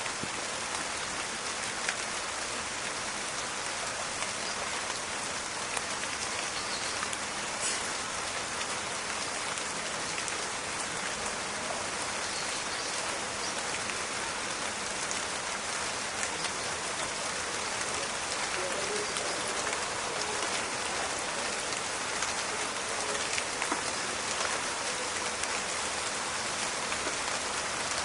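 Steady rain falling on a forest, with the patter and crackle of many drops hitting leaves and surfaces.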